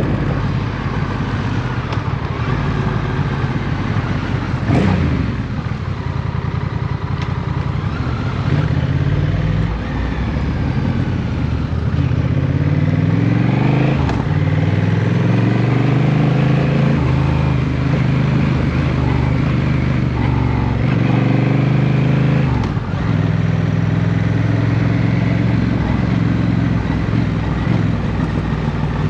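Motorcycle engine running under way, rising in pitch as it accelerates about halfway through, then holding steady.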